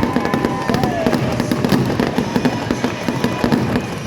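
Aerial fireworks going off in a dense, continuous crackle of rapid pops. In the first second, thin whistling tones sound over it, one sliding down in pitch.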